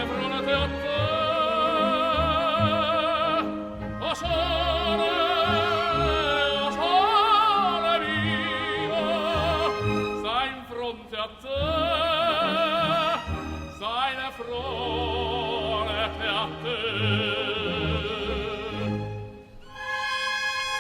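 Operatic singing with a wide vibrato over an orchestral accompaniment, as background music. Near the end the voice drops out and the orchestra holds a chord.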